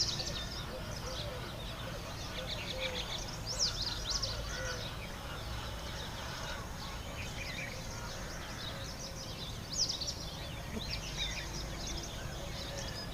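Short high bird chirps, in a few brief clusters about four seconds in and again near ten seconds, over a steady low background rumble.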